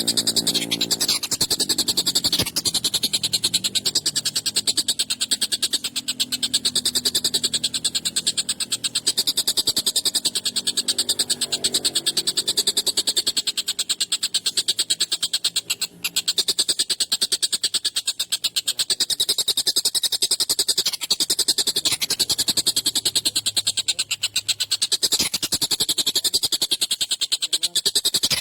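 Tengkek buto (kingfisher) calling in a loud, rapid, continuous rattling chatter of fast repeated notes, with a brief break about halfway through.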